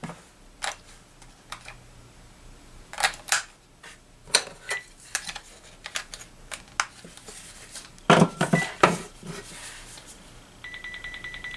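Plastic clicks and clacks of a cordless phone handset being handled while its rechargeable batteries and battery cover are swapped, with a louder clatter around two-thirds of the way in. Near the end a steady, rapidly pulsing electronic tone from the phone starts.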